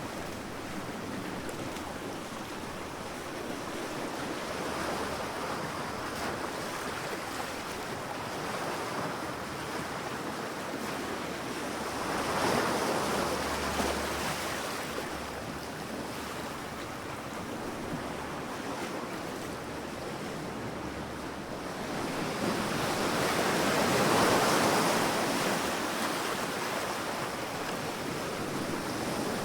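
Sea waves breaking and washing up a beach, with a steady surf wash and two waves surging louder, about twelve seconds in and again near twenty-four seconds.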